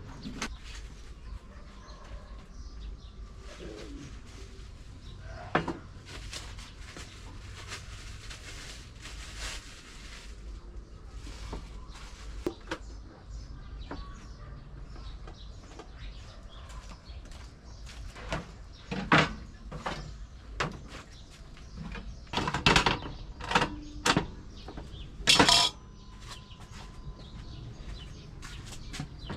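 Knocks and clatters of hand kitchen work, a few sharp, loud ones in the second half, over a faint background with birds calling.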